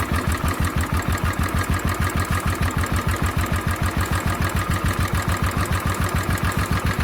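Royal Enfield Bullet 500's single-cylinder engine idling with an even beat of about six to seven pulses a second, while its idle screw is turned to raise an idle speed set too low to hold up with the headlight on.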